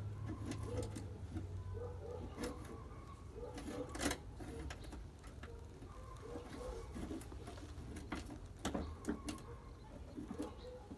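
Scattered light clicks and metallic taps, with a couple of sharper knocks about four and nine seconds in, as sheet metal is handled and fitted during car body repair.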